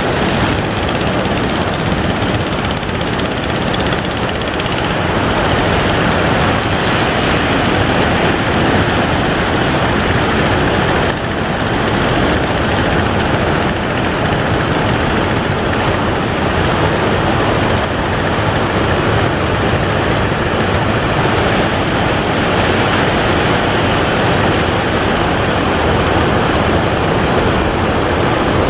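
Heavy surf at a river mouth: a loud, steady roar of breaking waves.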